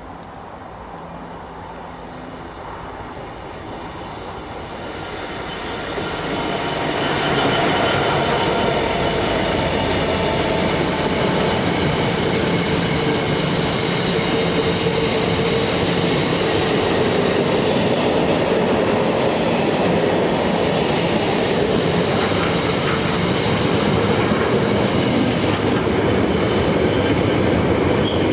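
A train approaching, growing louder over about seven seconds, then passing close by with a steady, loud running noise.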